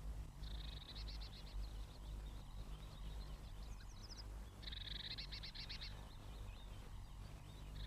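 Small garden birds calling in two quick, high-pitched trills of rapidly repeated notes, the first about half a second in and the second after about four and a half seconds, faint over a low steady hum.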